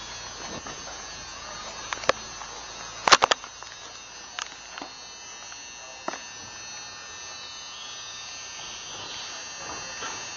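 Steady electrical hum of a large indoor hall, with a few sharp knocks or clicks; the loudest is a quick cluster about three seconds in.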